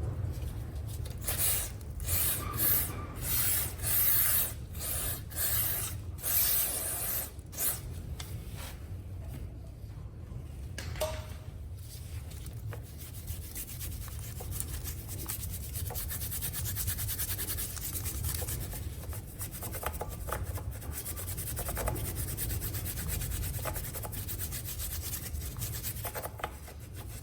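Scrubbing grime off a motorcycle's chain guide: separate rasping strokes for the first several seconds, then faster, even back-and-forth scrubbing from about halfway in, over a low steady hum.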